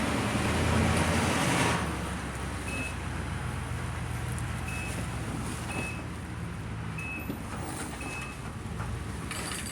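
Aerosol spray paint hissing out in one long spray for the first couple of seconds, over the steady low running of an engine, with a few short high beeps later on.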